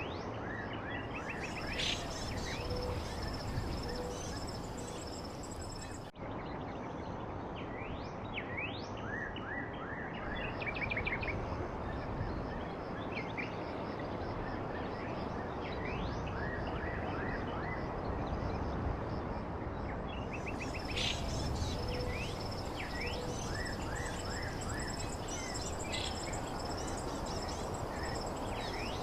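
Several small songbirds chirping and trilling in quick, high notes and short sweeps over a steady background hiss, with a thin, steady high tone in some stretches. The sound cuts out for an instant about six seconds in.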